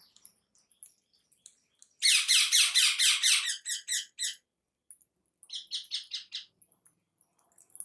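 Pet birds calling: a loud, rapid run of short repeated calls, about seven or eight a second for some two seconds, then a shorter, quieter run a second later.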